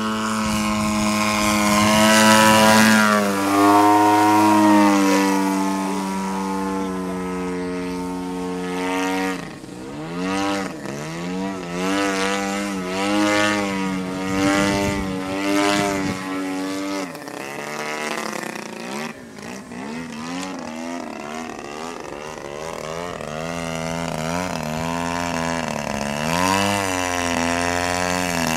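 50cc gasoline two-stroke engine and propeller of a radio-controlled Edge 540T aerobatic plane in flight. It is loudest early on, and its pitch drops sharply a few seconds in. In the middle it swoops up and down repeatedly as the plane manoeuvres, then climbs steadily near the end.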